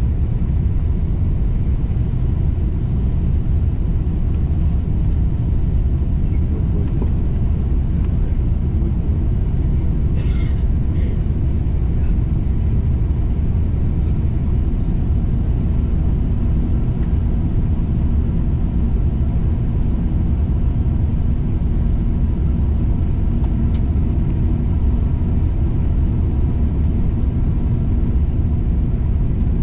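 Airliner cabin noise heard from a passenger seat: a steady low rumble of engines and airflow. A faint steady hum joins about halfway through.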